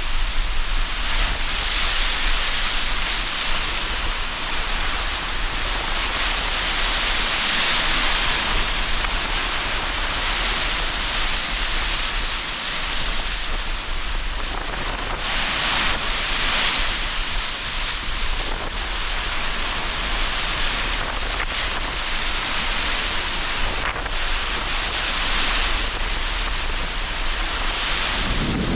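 Sea surf breaking under strong wind: a continuous rushing noise that swells and fades every several seconds as waves and gusts come through, over a steady low wind rumble.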